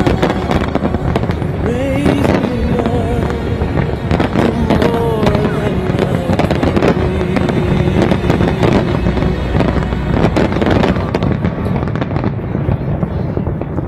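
Fireworks bursting in a rapid, continuous barrage of bangs and crackle over music, the barrage thinning a little near the end.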